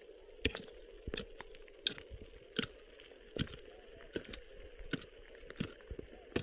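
A steady rhythm of sharp knocks or strikes, about three every two seconds, over a faint steady hum.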